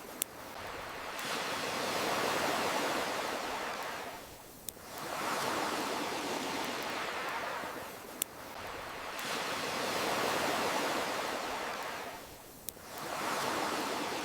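Ocean waves washing in and drawing back, swelling and fading in a slow rhythm about every four seconds. A few single sharp clicks fall at the low points between waves.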